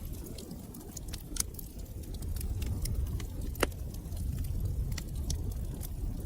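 Wood fire burning in a fireplace: a steady low rumble of flames with irregular sharp crackles and pops, one louder snap about halfway through.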